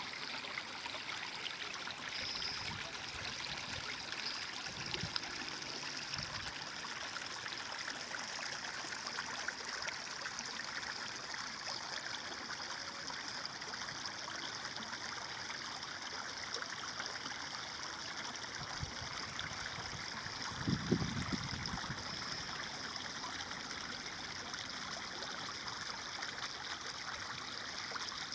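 Stream water flowing steadily, with an occasional low gurgle or plop, the strongest about three quarters of the way through.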